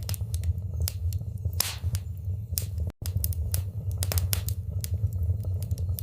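Wood fire crackling in a fireplace: sharp, irregular pops and snaps over a steady low rumble of the flames. The sound drops out for an instant about halfway through.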